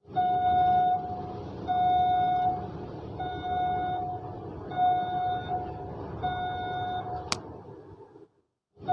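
Battery-powered toy vehicle's electronic sound effect: a steady single-pitched beep repeating about every second and a half over a continuous rumbling noise, with one sharp click about seven seconds in. The sound cuts off just before the end.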